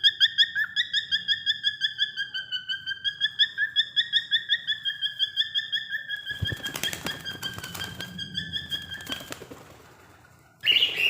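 Cockatiel chirping in a rapid, even run of short calls, about six a second, that fades away after about nine seconds. Wing flapping and rustling from about six seconds in, and one loud short call near the end.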